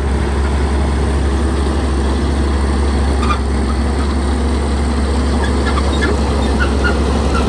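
Shantui bulldozer's diesel engine running steadily under load, with scattered short high-pitched chirps over it.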